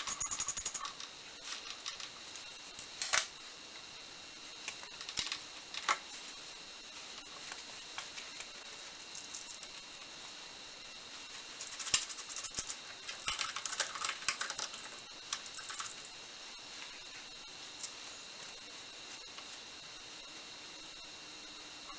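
Metal parts of a lathe's quick change gearbox clinking and clicking as the gear cluster is worked loose and the pieces are handled and set down, in scattered bursts with a busier stretch about twelve seconds in. A faint steady high whine runs underneath.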